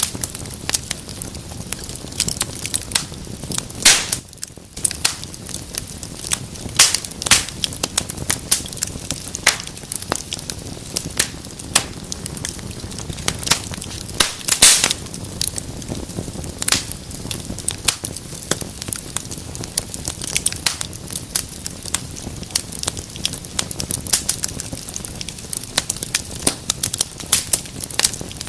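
Wood fire burning in a fireplace, crackling and popping with frequent sharp snaps over a steady low hiss of flames.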